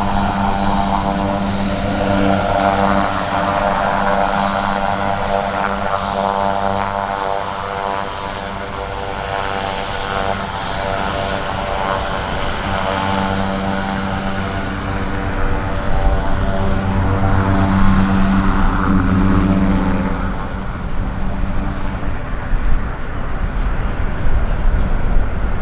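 Aircraft engines running with a steady pitched hum and whine, swelling louder about two-thirds of the way through.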